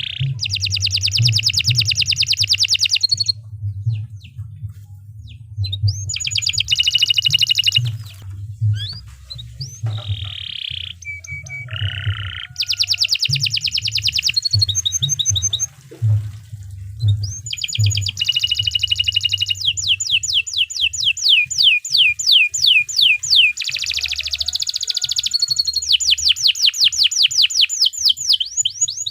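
Domestic canary singing: long phrases of fast rolling trills and rapid repeated chirps, high-pitched, broken by short pauses. A low rumble runs underneath.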